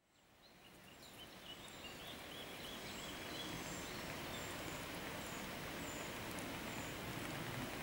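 Outdoor meadow ambience fading in: a steady hiss of open air with small birds calling, including a run of short, high, falling chirps repeated about twice a second in the middle.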